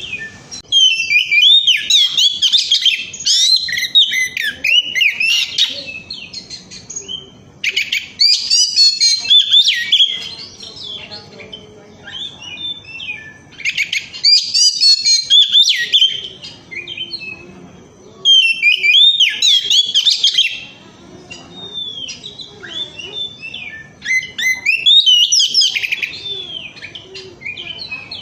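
Oriental magpie-robin singing a loud, varied song of quick whistles and trills. It comes in five loud bouts of a few seconds each, with quieter twittering between them.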